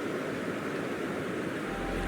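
Sea surf washing on the shore, a steady rush of waves. Soft background music begins near the end.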